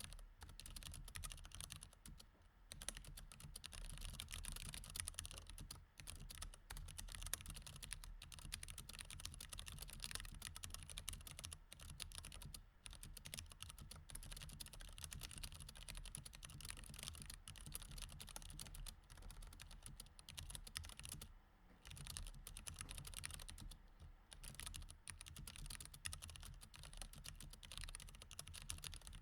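Steady, fast typing on a mechanical keyboard with Cherry MX Red switches: a dense run of key clicks and clacks, with a few brief pauses.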